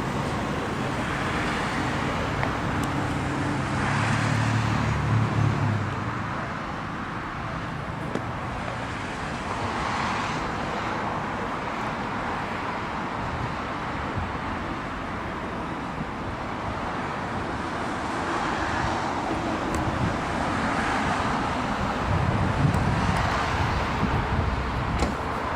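Motor vehicle noise outdoors: a steady rumble that swells and fades several times as vehicles go by.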